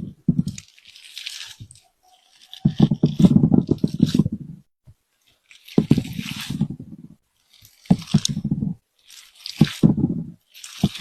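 Close-up crunching and squishing sounds in short bursts, about a second each, repeated five or six times with brief pauses between.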